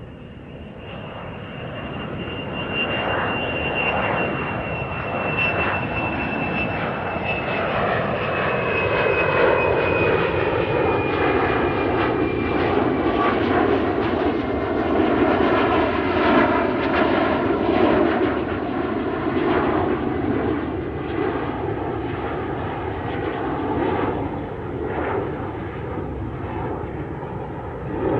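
Aeroplane engine noise building up over the first several seconds as the plane approaches, then staying loud and steady. A high whine falls slowly in pitch through the first half.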